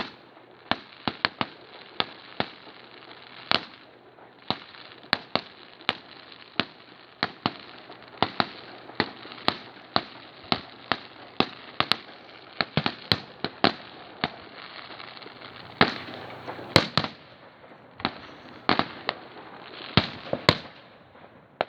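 Fireworks display: a rapid, irregular string of sharp aerial shell bangs, one to three a second, over a steady crackle, with louder clusters of bangs about three-quarters of the way through.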